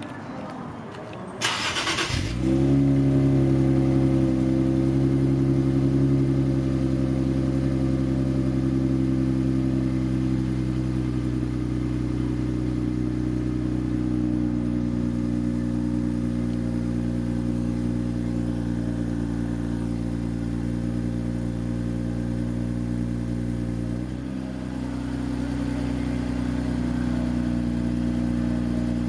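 Infiniti Q50 3.0t's twin-turbo V6 cold-starting through a newly fitted Invidia cat-back exhaust. After a brief crank about a second and a half in, the engine catches and settles into a steady fast cold idle. The idle dips and steps down slightly a few seconds before the end.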